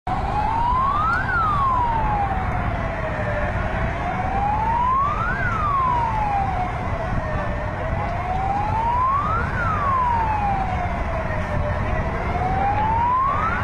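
Emergency vehicle siren wailing, its pitch slowly rising and falling about every four seconds, over a steady low rumble of background noise.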